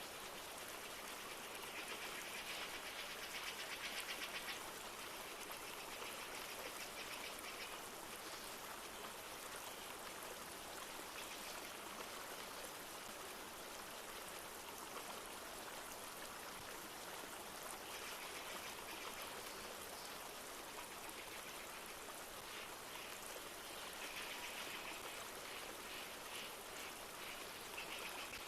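A flowing river runs with a steady rush, with light rain falling. Over it come several bouts of high, rapid trilling bird calls, each lasting a few seconds.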